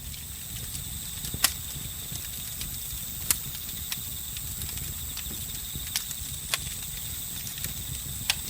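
Campfire crackling, with about six sharp pops scattered irregularly over a low, steady burning rumble, under the continuous high chirring of crickets and other night insects.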